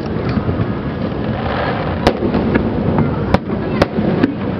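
Aerial fireworks bursting over a continuous low rumble of booms, with several sharp cracks in the second half.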